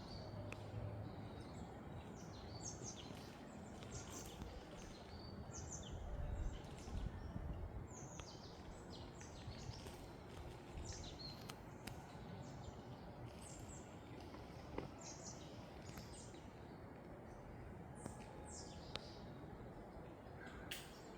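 Small birds chirping, many short high calls that sweep downward, scattered throughout over a faint steady background noise. A low rumble comes in about six seconds in and lasts about a second.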